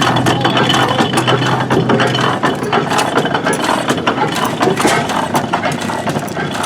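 Running antique stationary gas engines, a dense rapid mechanical clatter of clicks and knocks. A steady low hum under it stops about two and a half seconds in.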